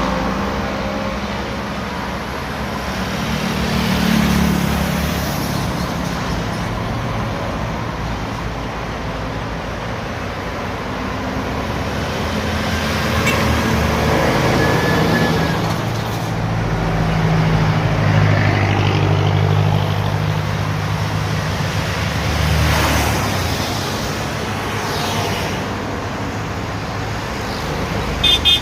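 Scania truck's diesel engine pulling away and accelerating, swelling and easing several times amid road traffic noise. A few short horn toots sound near the end.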